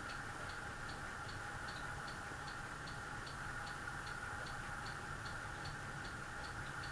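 Light, evenly paced mechanical ticking, about two to three ticks a second, over a steady electrical hum.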